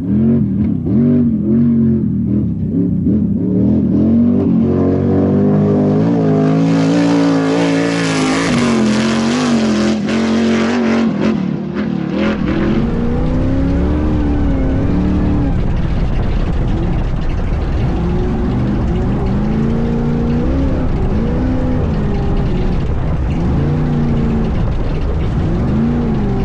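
Class 1 all-wheel-drive off-road race buggy's engine revving up and down continuously as it is driven hard. It is at its loudest and harshest for several seconds in the first half.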